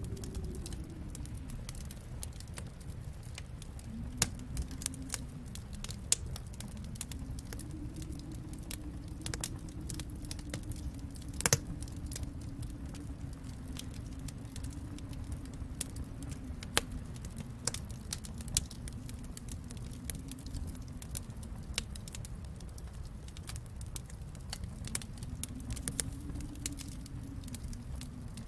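Wood fire crackling in a fireplace: scattered sharp pops and snaps over a steady low rumble, with one louder pop near the middle.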